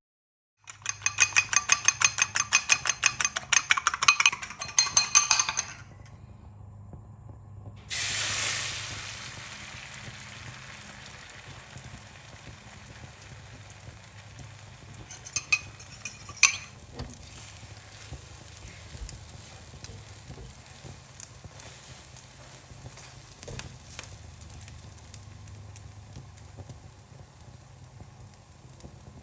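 Food sizzling in a hot frying pan. It starts suddenly about eight seconds in and settles to a steady lower sizzle, with a few clinks of utensils in the middle. Before it there is a rapid run of rhythmic pulsing clicks lasting about five seconds.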